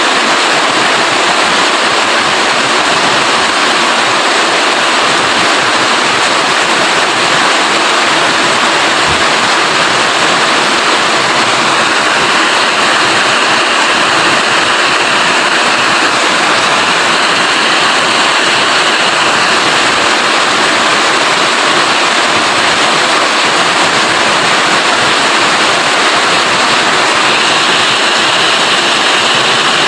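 Rain falling steadily: a loud, even hiss that does not let up.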